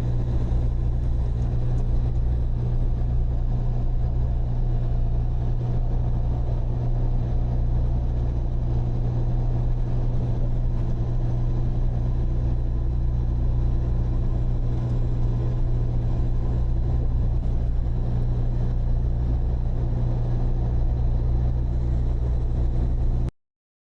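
Freightliner semi-truck's diesel engine droning steadily at highway cruising speed, with tyre and road noise. The sound cuts out to silence for about half a second near the end.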